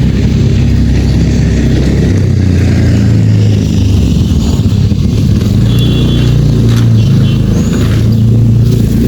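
A motor engine running steadily and loudly, with a few short, faint high bird chirps over it around the middle and near the end.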